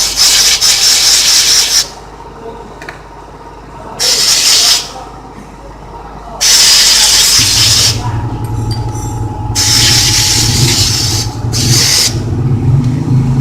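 Compressed-air blowgun hissing in on-and-off blasts as brake caliper parts are blown clean. About seven and a half seconds in, an air compressor motor starts and keeps running with a steady hum under the blasts.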